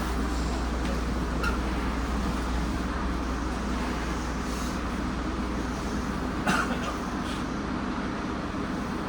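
Steady rumble and low hum inside a Nagoya Municipal Subway 2000 series car. A brief clack comes about one and a half seconds in, and a louder short rattle about six and a half seconds in.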